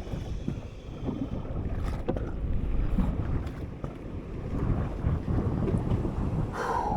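Wind buffeting the microphone, with sea water washing around a small drifting boat.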